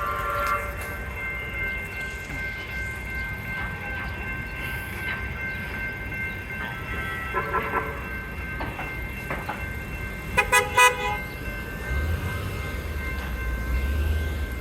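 Light rail train with a steady high electric whine, sounding three quick horn toots about ten seconds in, with a low rumble building near the end.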